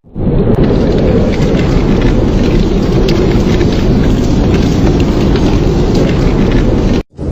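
Steady snowstorm ambience: a dense, unbroken rush of wind-driven noise, heaviest and rumbling in the low range. It cuts out for a moment near the end.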